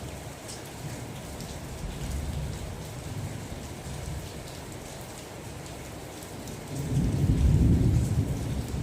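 Steady rain with fine drop ticks. A low thunder rumble swells about seven seconds in, is the loudest thing there, and fades near the end.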